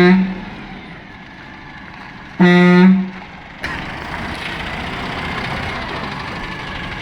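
Truck horn: the end of one honk right at the start, then a second short honk about two and a half seconds in. A steady rushing noise comes in about a second after that.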